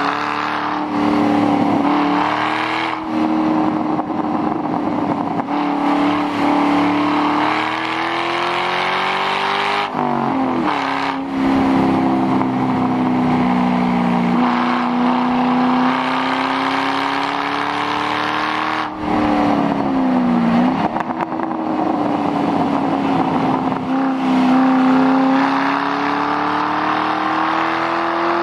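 2006 Mustang GT's 4.6-litre V8 running through a muffler-delete exhaust while driven hard on track. The engine note rises and falls steadily, dropping sharply and climbing again about ten seconds in and again around twenty seconds, as with lifting off and changing gear.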